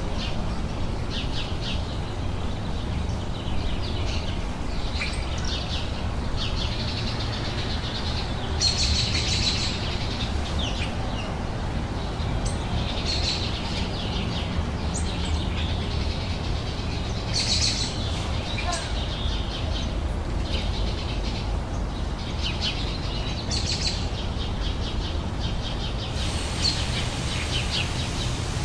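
Small songbirds chirping and singing in short, overlapping phrases throughout, over a steady low rumble.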